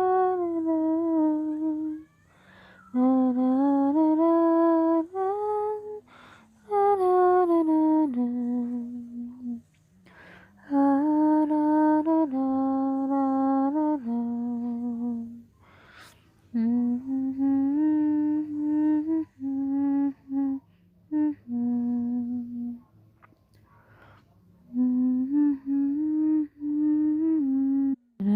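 A person humming a slow lullaby tune without words, in short melodic phrases broken by brief pauses.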